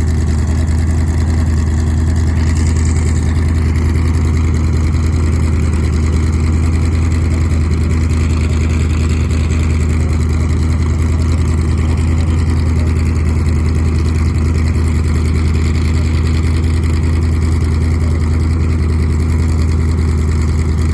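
Engines of a twin-engine car running steadily at a constant low speed, a strong even low hum with no revving.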